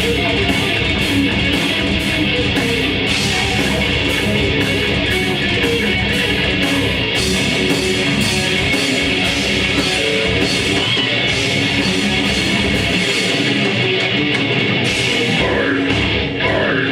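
Grindcore band playing live: heavily distorted electric guitars and bass over fast drumming with crashing cymbals, at a steady high level.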